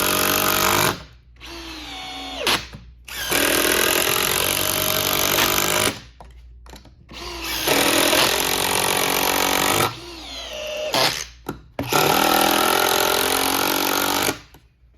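A DeWalt DCF787 cordless impact driver hammering and a DeWalt DCD777 cordless drill running together, driving 3-inch T25 screws into wood with no pilot holes. The sound comes in loud runs of two to three seconds, one per screw, with short pauses between them.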